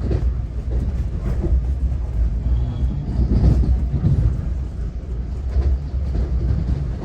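Steady low rumble of a moving commuter train heard from inside the passenger car, with faint rattles and clacks of the wheels on the track.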